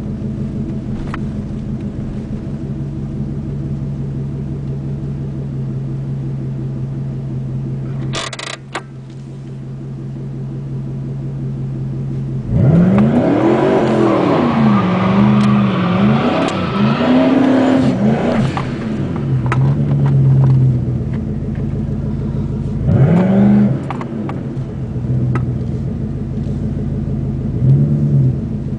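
Turbocharged 5.3-litre V8 of a 2006 Monte Carlo SS idling steadily, then revved repeatedly, its pitch rising and falling several times about halfway through. It settles back to idle, with two more short revs near the end and a sharp click about eight seconds in.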